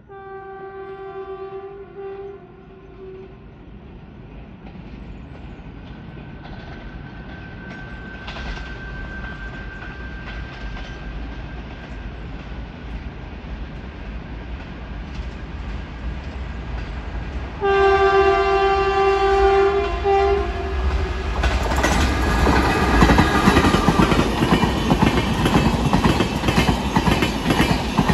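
An express train's locomotive horn sounds one long blast, then the train's rumble slowly grows as it approaches. About 18 seconds in the horn sounds a second, louder long blast, and a few seconds later the train passes close by with loud wheel clatter over the rail joints.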